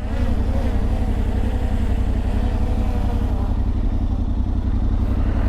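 Yamaha Ténéré 700's parallel-twin engine idling steadily, with a wavering higher hum over the first three seconds.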